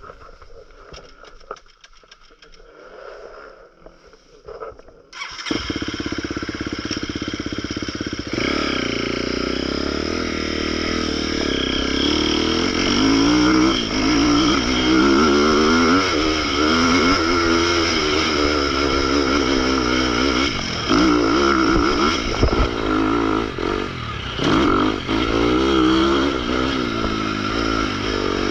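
Motocross bike engine coming in suddenly about five seconds in, then running hard with the revs rising and falling over and over as the throttle is opened and closed.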